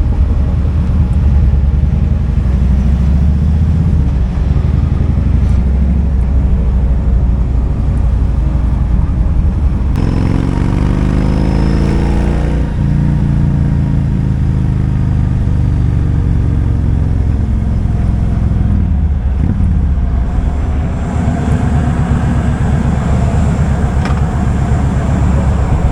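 Kawasaki Vulcan 2000's 2-litre V-twin engine running at low revs, with a steady deep rumble. About ten seconds in it accelerates: the engine note rises for a couple of seconds, then eases back down gradually.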